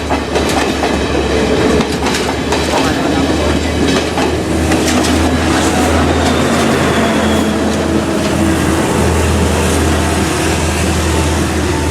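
Diesel train running on the rails: a steady loud rumble, with wheels clacking over rail joints in the first few seconds, then a steadier run with a humming engine tone.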